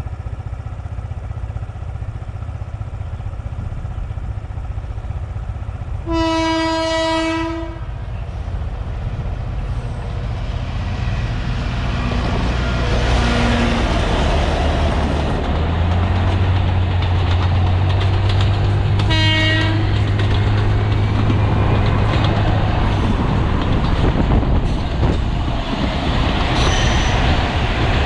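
Alishan Forest Railway DL47 diesel locomotive passing with a train, its engine rumble growing louder as it approaches. It sounds its horn twice: a blast of about a second and a half about six seconds in, and a short toot near nineteen seconds.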